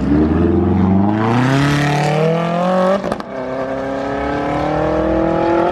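A car engine accelerating hard under full throttle, its note rising for about three seconds. It breaks off briefly at a gear change, then climbs again more slowly.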